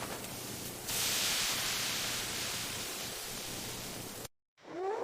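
Steady hissing noise that grows louder about a second in, then cuts off abruptly near the end.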